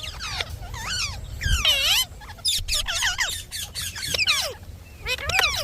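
Indian ringneck parakeet calling: a fast run of short, high-pitched squawks and chatter, each sweeping quickly up and down in pitch, with a short lull past the middle.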